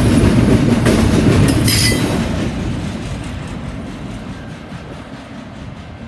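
Freight train cars rolling over a junction switch, the wheels clicking over the rail joints with a brief metallic squeal about two seconds in, then the rumble fades as the train moves away.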